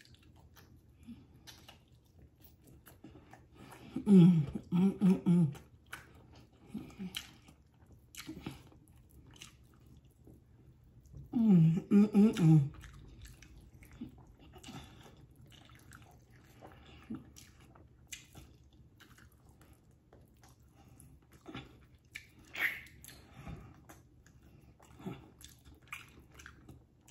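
Close-miked chewing, biting and lip smacking of someone eating meat off the bone, with two short hummed sounds from the eater, about four seconds in and again about twelve seconds in.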